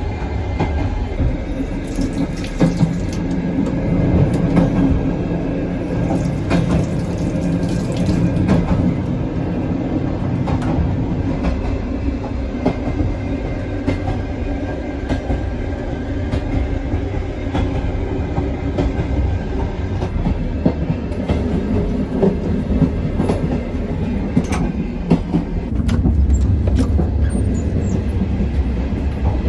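Soviet-built sleeper train running, a steady low rumble with irregular clicks and knocks from the wheels and carriage.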